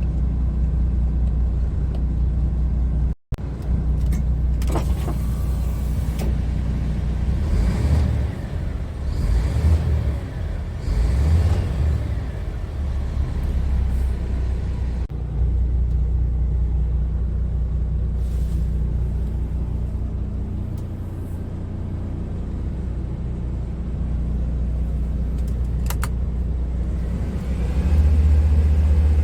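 Scania R tractor unit's diesel engine running steadily, rising and falling unevenly for a few seconds in the middle and getting louder near the end. A brief dropout a little after three seconds in breaks it.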